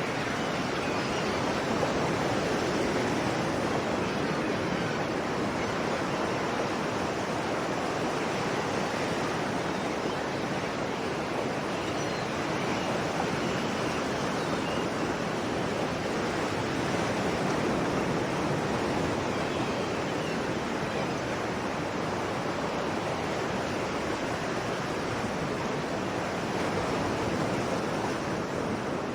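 Sea waves washing onto a shore, a continuous even rush with gentle slow swells in loudness.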